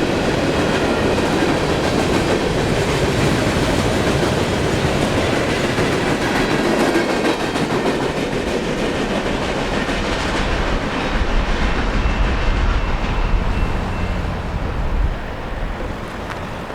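Train passing over a railroad crossing, its wheels clattering on the rails over a steady rumble; the sound falls off about fifteen seconds in as the train clears.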